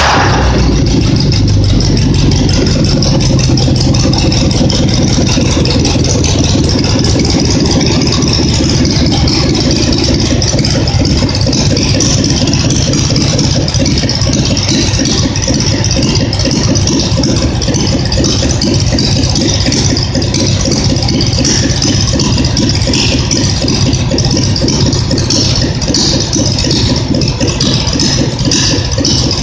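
Kohler Magnum M20 twin-cylinder engine running steadily on the bench after a reseal, its firing pulses even throughout, with no popping or misfiring.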